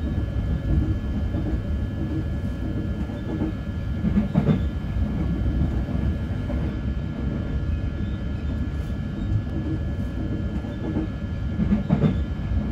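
Matangi electric commuter train running at speed, heard from inside the carriage: a steady low rumble of wheels on the rails with a faint steady high whine. A few brief knocks come over rail joints, about four seconds in and again near the end.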